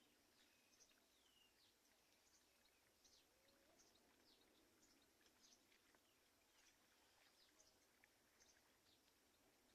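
Faint, scattered high-pitched bird chirps, many short falling notes a few per second, over a faint steady hiss.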